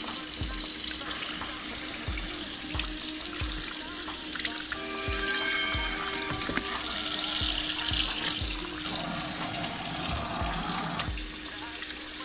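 Kitchen tap running into a sink while crappie are rinsed and cleaned, with background music with a steady beat underneath.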